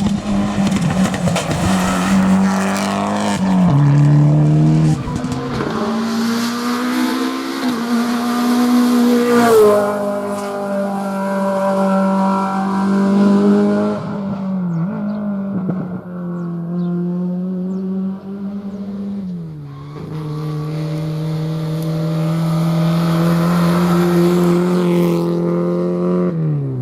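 Rally car engines revving hard, the engine note climbing and dropping again and again through gear changes as the cars run at speed.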